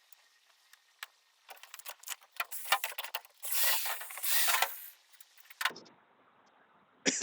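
Metal hand tools and hardware clinking, scraping and rattling in quick irregular clicks while screws are worked loose on the boat's gas tank hold-downs, with a denser rattling stretch in the middle.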